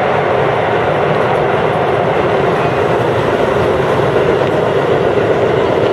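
Chiba New Town Railway 9000 series electric train running steadily at speed, heard from inside the front car: a constant rolling rumble of wheels on rail.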